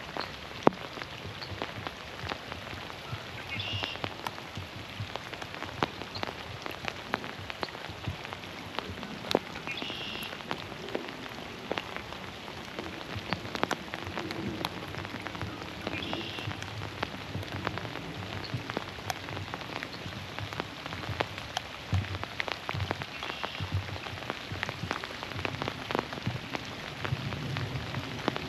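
Steady rain falling on leaves and water, with many individual drops ticking close by. A short high bird call repeats about every six seconds.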